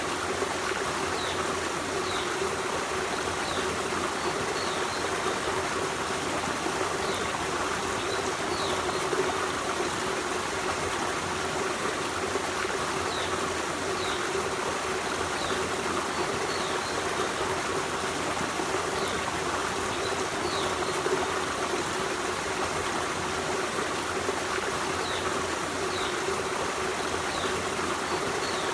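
Forest stream running steadily over stones, an even rush of water. Short high chirps, typical of a small bird, come every few seconds.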